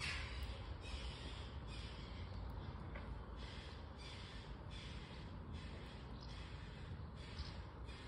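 A crow-like bird cawing over and over, about one and a half harsh calls a second, above a low rumble.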